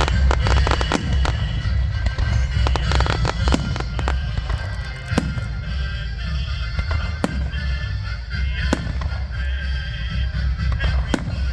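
Fireworks grand finale: rapid, irregular bangs and booms, several a second, over a continuous low rumble.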